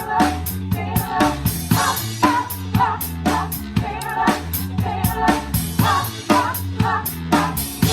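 Live band playing a 1970s pop song: singing over a steady drum-kit beat and bass, the drums close and prominent.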